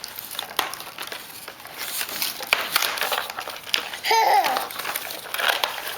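Rustling and crinkling of toy packaging being handled as the tractor's wheels are worked free of the box, with a short child's vocal sound about four seconds in.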